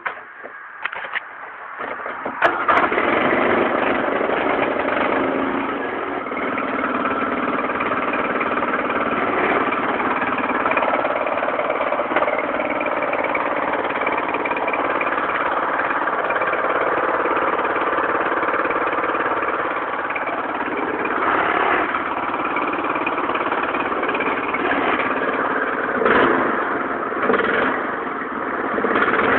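Lawn tractor's small engine, cold, catching about two and a half seconds in and then running steadily.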